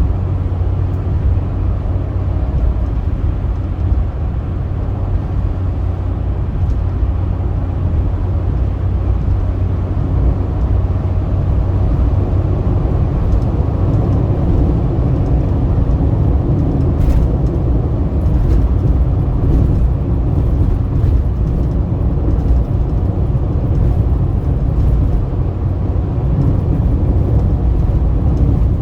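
Steady low rumble of a car driving at speed on a highway: road and engine noise, with a few faint ticks.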